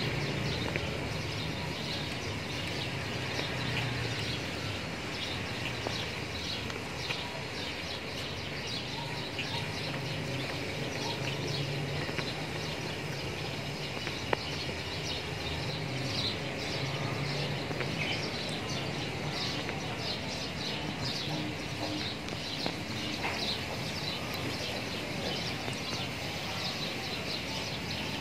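Small birds chirping over and over, with a steady low hum of outdoor background noise underneath.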